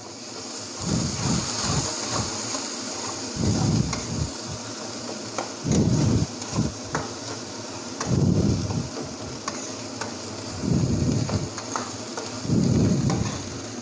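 Onion-tomato masala sizzling in hot oil in a kadai while a metal spatula stirs it, each scraping, swishing stroke about every two seconds over the steady sizzle, with a few light clicks of the spatula on the pan.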